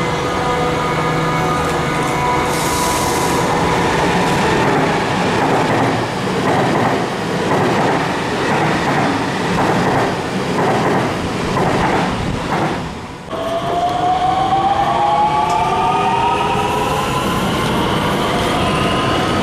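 Red DB regional electric train passing close alongside the platform, its wheels clattering over rail joints in a regular rhythm. About two-thirds of the way through this gives way to a rising electric whine of a train's traction motors as it speeds up.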